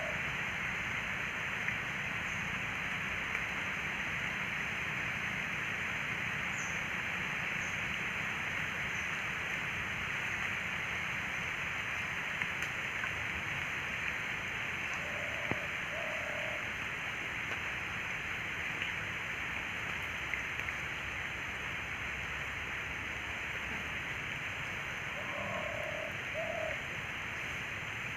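Steady rush of flowing water, with a few short low bird calls, two or three at a time, about halfway through and again near the end.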